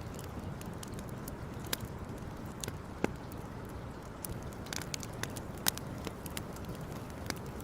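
Wood campfire crackling: irregular sharp pops of burning wood, the strongest about three and six seconds in, over a steady low rush.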